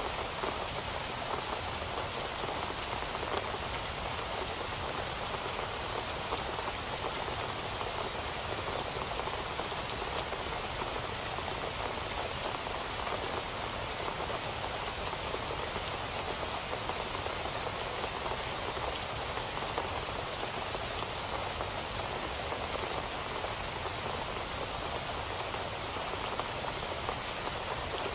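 Steady rain falling on a surface, a dense even patter with individual drops ticking through it.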